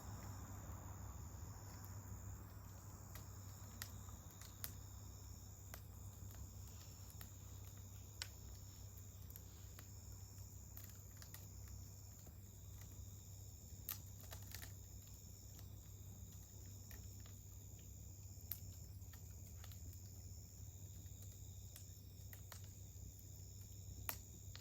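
Faint campfire crackling: wood burning, with scattered sharp pops at irregular intervals. Behind it runs a steady, high insect trill like crickets.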